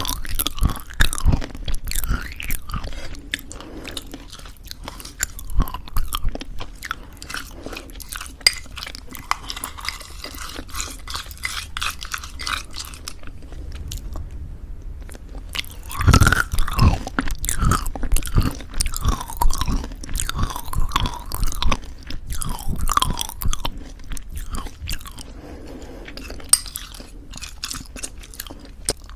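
Close-miked chewing of crunchy homemade granola in thick yogurt: a steady run of crackling bites and crunches, with a brief lull partway through followed by a louder cluster of crunches.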